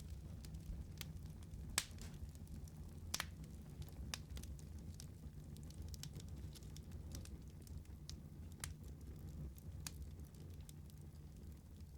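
Wood fire burning with a low steady rumble and scattered sharp crackles and pops, two louder pops about two and three seconds in.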